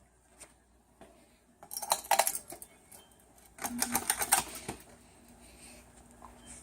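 Two bursts of rapid metallic clicking and rattling, each under a second long, then a faint steady hum sets in near the end.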